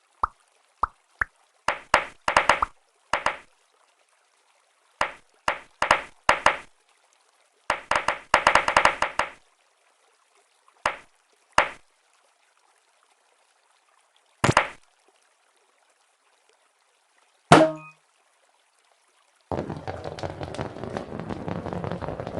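A series of short sharp clicks and clattering knocks with silent gaps between them, like small diecast toy cars being handled and knocked together. The densest rattle comes about eight seconds in. For the last few seconds a steady hiss takes over.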